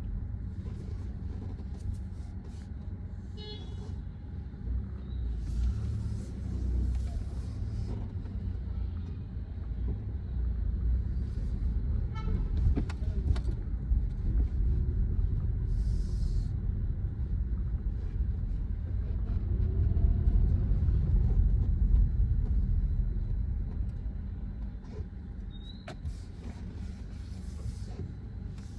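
Car engine and road noise heard from inside the cabin during slow city driving: a steady low rumble that swells louder about two-thirds of the way through, with a few short hisses from passing traffic.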